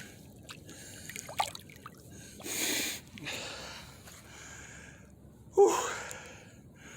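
A man breathing heavily in and out, out of breath, with a loud "whew" exhaled near the end.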